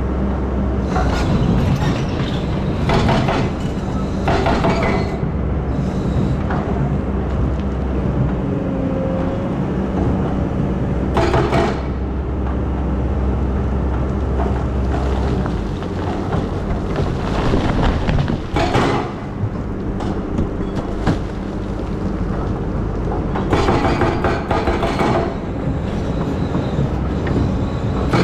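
Excavator's diesel engine running steadily under load, with repeated bursts of scraping and clanking every few seconds as the machine works in sand. The low engine drone drops a little about halfway through.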